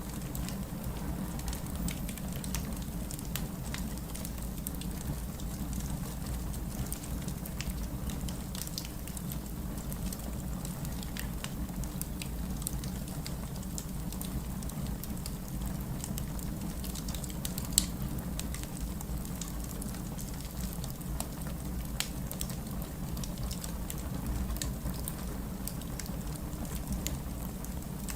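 Steady rain with a low rumble, mixed with a wood fire crackling and popping, one louder pop about two-thirds of the way through.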